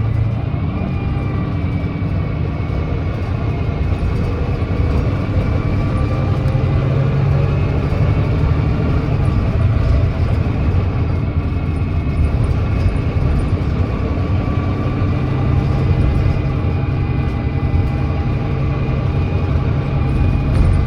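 Volvo D9B 9.3-litre diesel engine of a Volvo B9TL double-decker bus running continuously, its note stepping up and down in pitch a few times, with a thin steady high whine over it.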